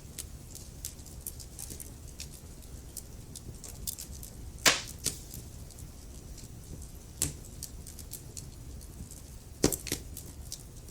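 Wood fire crackling: a steady run of small snaps over a low rumble, with three louder pops about five, seven and ten seconds in.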